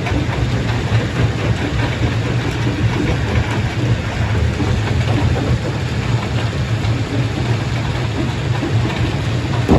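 Heavy stone-crushing machinery running with a steady, loud low drone and a constant gritty noise over it.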